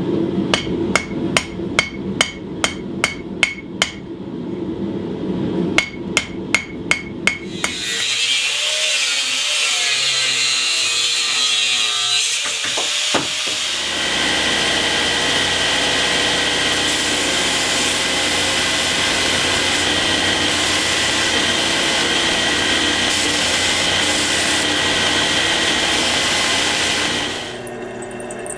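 Hand hammer blows on a hot steel pommel worked over the anvil horn, about three a second, with a short pause. From about seven seconds in, a power tool runs steadily and then cuts off near the end.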